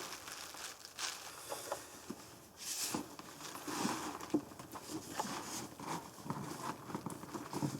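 Packaging rustling and crinkling in irregular bursts, with small clicks and knocks, as items in a shipping box are handled and moved aside.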